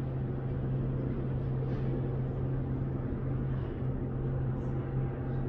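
A steady low hum at one constant pitch over a bed of noise, with no distinct events.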